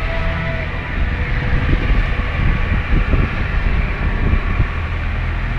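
Wind buffeting the microphone and water rushing past the hull of a sailing yacht under way in choppy water, with a steady low rumble and irregular gusty thumps.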